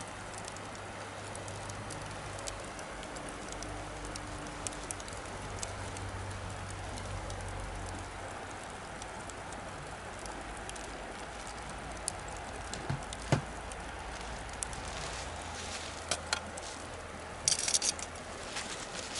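Wood bonfire crackling: a steady hiss with scattered sharp pops, one loud pop about two-thirds of the way in and a quick cluster of pops near the end. A faint low hum runs under the first half.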